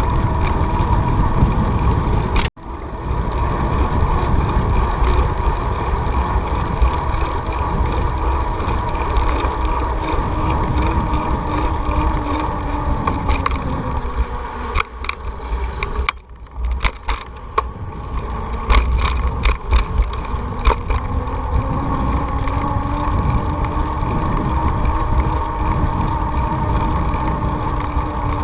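Riding a bicycle: steady wind rumble on the microphone and tyres running on pavement, with a faint steady hum. A quick run of clicks comes about two-thirds of the way in.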